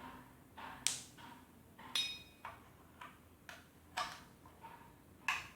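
Clicks and knocks, about one a second, from the home-made heater's plug being fitted into a wall socket and switched on, with a short metallic clink about two seconds in.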